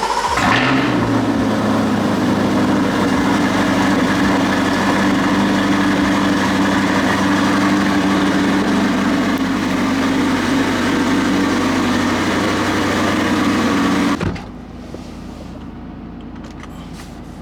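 Car engine started and running at a steady high idle, with a brief rise in pitch just after it catches. About 14 seconds in it drops abruptly to a much quieter level.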